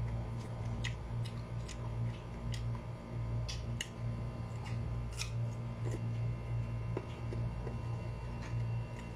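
Crisp chewing of unripe green mango slices: short, sharp crunches at an uneven pace over a steady low hum.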